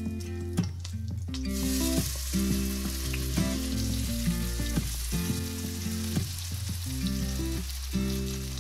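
Grated zucchini pancakes frying in olive oil in a non-stick frying pan: a steady sizzle that starts about a second and a half in. Background music plays throughout.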